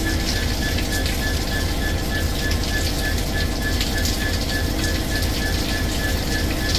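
Heavy rain falling, a steady hiss with the patter of drops close by and a low rumble underneath. A rapid, evenly repeated high pip sounds through the rain.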